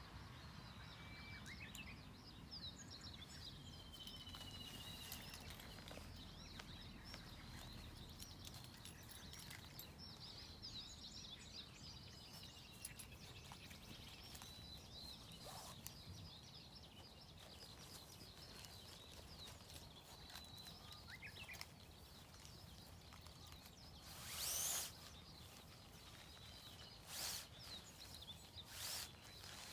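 Faint birds chirping now and then over quiet woodland ambience. A brief loud noise comes about three-quarters of the way through, with a few shorter ones near the end.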